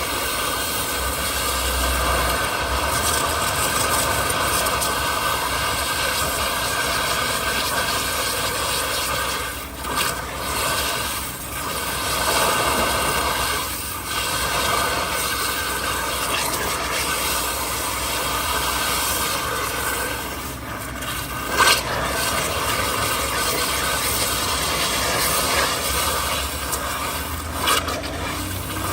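Car being washed: a steady hissing wash noise with a few brief breaks, and a couple of short knocks near the end.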